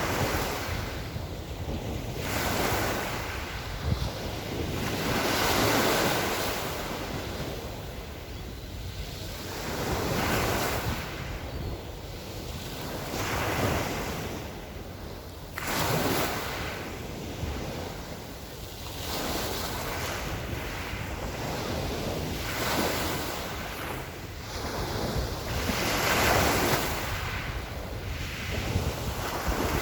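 Small Black Sea waves washing onto the shore, a swell of surf rising and falling every few seconds, with wind rumbling on the microphone.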